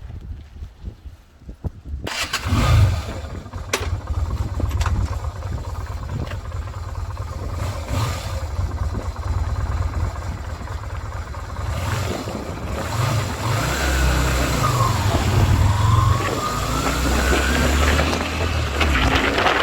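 Yamaha Virago 250's V-twin engine starting about two seconds in, then running, with its revs rising and falling in the second half.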